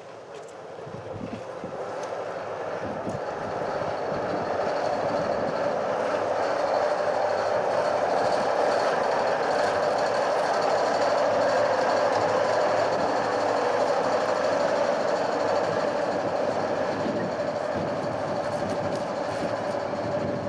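La Rhune electric rack-railway train running on its cog rack: a steady mechanical whine from the motors and rack gearing. It grows louder over the first few seconds, then holds.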